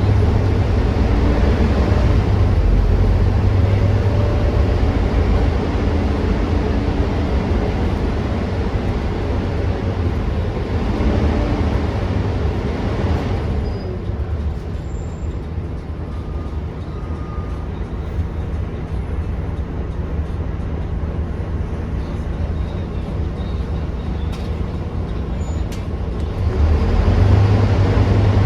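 Volvo B9TL double-decker bus heard from on board, its nine-litre straight-six diesel running with a strong low hum. About halfway it drops to quieter, steadier running, and near the end it picks up loud again as the bus pulls away.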